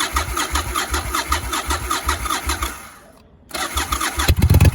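A 1999 Yamaha Virago XV1100S V-twin being cranked on its electric starter on a cold start, with a whirring that labours in a steady rhythm of about two to three pulses a second. The cranking stops about three seconds in, starts again half a second later, and near the end the engine gives several much louder low thuds as it begins to fire.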